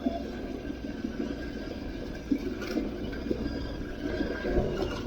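Aprilia Tuareg 660's parallel-twin engine running steadily while riding off-road, with a few short knocks from the bike over rough ground.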